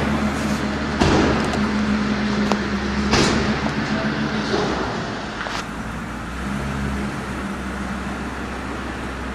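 A truck engine running steadily, with several sharp knocks and clanks over it during the first half.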